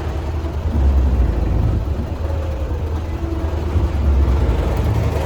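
Diesel engine of a MAN 26.272 concrete mixer truck running steadily, a deep low rumble that swells and eases slightly.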